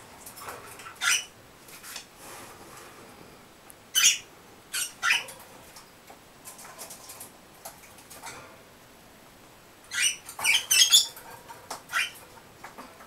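Pet gray birds giving short, sharp, high chirps and squeaks in scattered bursts, with a quick flurry of them about ten seconds in.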